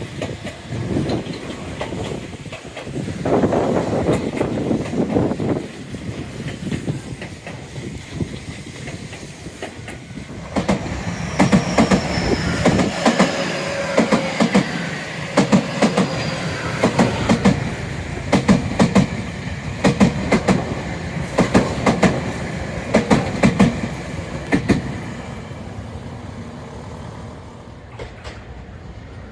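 Tobu Tojo Line electric train passing, its wheels clacking over rail joints in a steady rhythm of paired clicks, loudest through the middle and fading away near the end.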